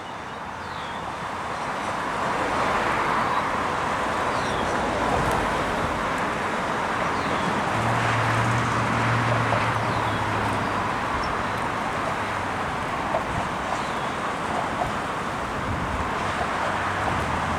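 Train running past: a steady rumbling noise that builds over the first couple of seconds, with a low engine hum for a few seconds in the middle.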